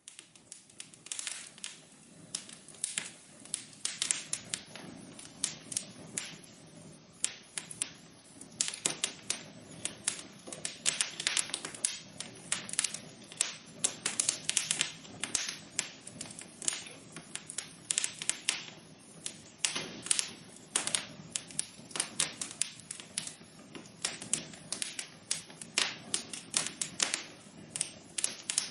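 Wood fire in a fireplace crackling and popping: dense, irregular sharp pops over a low steady hiss. It starts suddenly at the very beginning.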